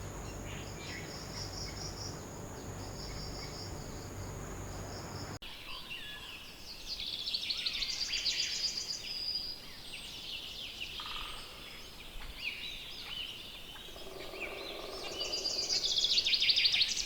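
Insects chirping in quick pulses over a low hum. About five seconds in this cuts off abruptly and gives way to wild birds singing, with fast trills and varied calls that grow loudest near the end.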